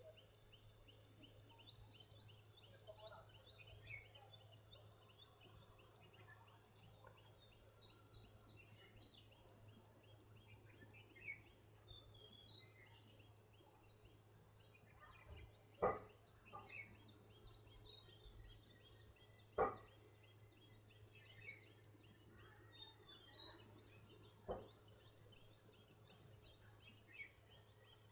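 Several small birds chirping and trilling over a faint low hum, with three sharp clicks in the second half that are the loudest sounds.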